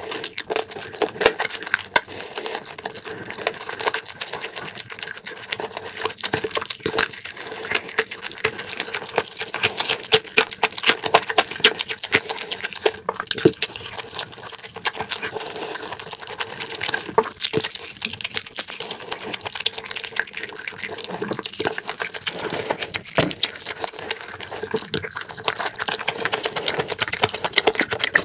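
Close-miked chewing of food: wet smacking and mouth sounds with many quick irregular clicks.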